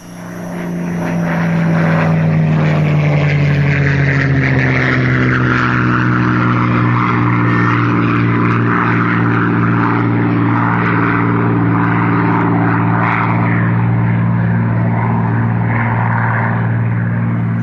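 Electric motor and propeller of a Parkzone Spitfire RC model plane droning steadily in flight. The pitch eases down slightly over the first few seconds, then holds level.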